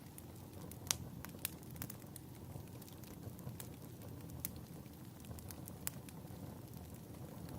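Crackling wood fire in a fireplace: a steady low rumble of flames with irregular sharp pops and crackles, the loudest pop about a second in.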